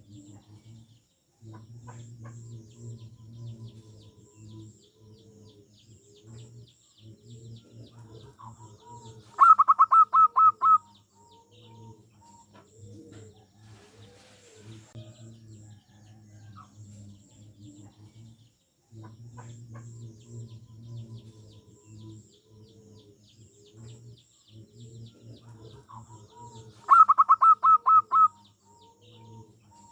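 Zebra dove (perkutut) cooing in low arching notes. Twice, about nine seconds in and again near the end, it gives a loud burst of rapid staccato notes, the loudest sound here. Faint high chirps of other small birds run underneath.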